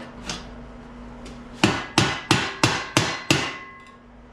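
Hammer striking metal bodywork: a light tap, then a run of six quick, sharp blows about three a second, each ringing briefly.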